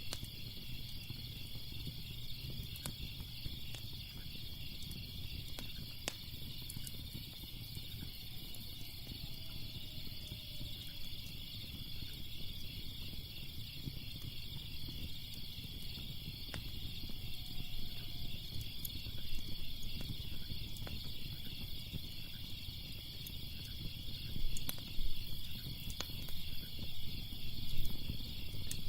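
A steady chorus of chirping crickets, a continuous finely pulsing high trill, over a low rumble. Scattered sharp crackles and pops of a wood fire sound throughout and get louder and more frequent in the last few seconds.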